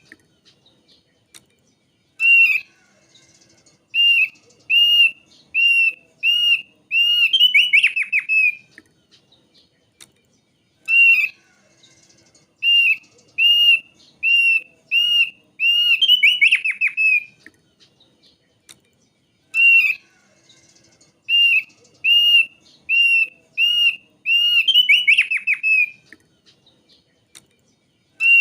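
Thick-billed white-eye (opior paruh tebal) song: a run of short, clear arched whistles, each run ending in a quick tumbling burst of falling notes. The phrase repeats three times, about every nine seconds, as on a looped lure recording.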